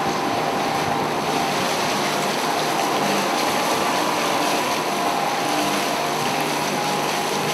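A boat's engine running steadily, over a steady rush of wind and water.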